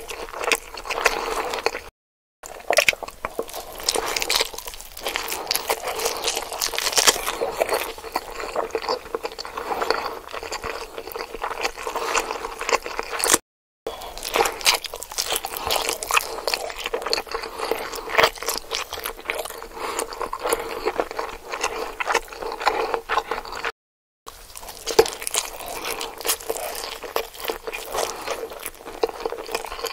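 Close-miked chewing and biting of salmon nigiri sushi: a dense, continuous run of small mouth clicks. The sound cuts out to silence three times, briefly each time.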